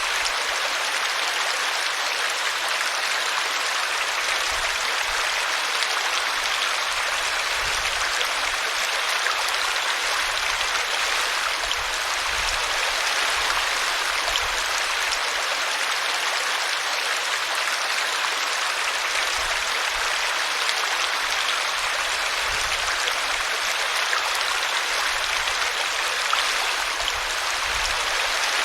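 Small brook spilling over a tree root, a steady rush of running water.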